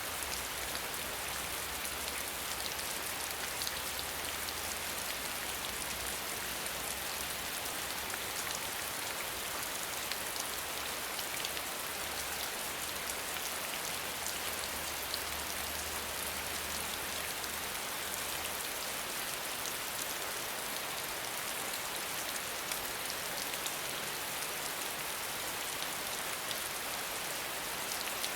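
Steady rain falling, an even hiss dotted with the fine ticks of individual drops striking a surface. A faint low rumble underneath stops about two-thirds of the way through.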